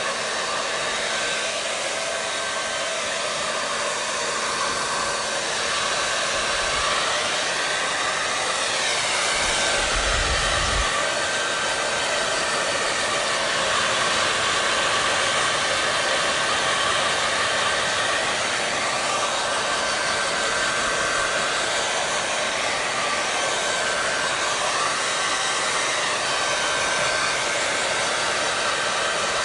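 Hand-held blow dryer running steadily: a constant rushing airflow with a faint steady whine, its tone colour shifting slowly every few seconds. A brief low rumble comes about ten seconds in.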